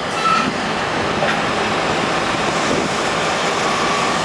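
Heavy diesel rig-moving equipment running steadily, an even rush of engine and machinery noise with no distinct beat.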